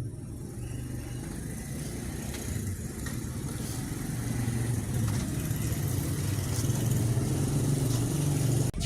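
Vehicle engine running while driving, a low steady hum that grows gradually louder toward the end.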